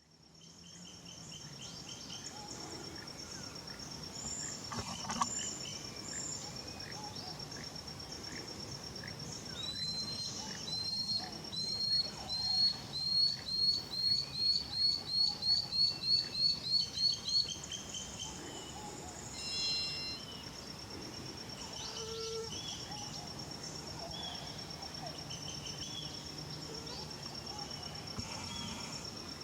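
Lanceolated monklet singing: a series of about sixteen short rising whistles, about two a second, growing louder. Underneath are a steady high insect trill and scattered calls of other forest birds.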